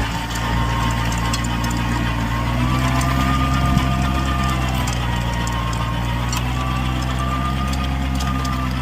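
Kubota B2441 compact tractor's diesel engine running steadily, with a faint whine that wavers slightly in pitch.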